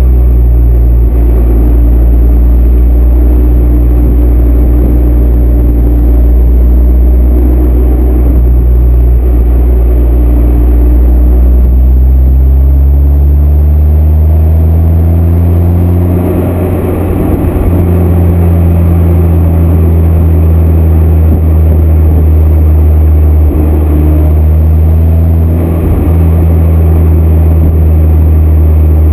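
SEAT Leon Cupra R's turbocharged 2.0 TSI four-cylinder running through a downpipe and high-flow sports cat with the stock cat-back exhaust: a deep, steady exhaust drone. Its pitch climbs slowly for a few seconds, dips briefly a little past halfway, then holds steady again.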